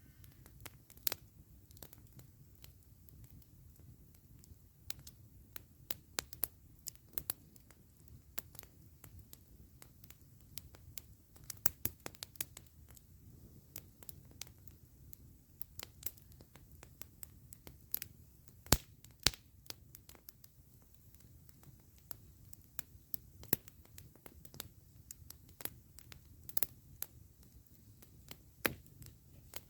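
Wood campfire crackling, with irregular sharp pops and snaps, the loudest a little past halfway, over a low steady rumble.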